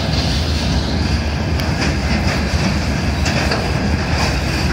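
Freight train of railway tank cars rolling past: a steady, loud rumble of the wagons with irregular clacks of the wheels over the rail joints.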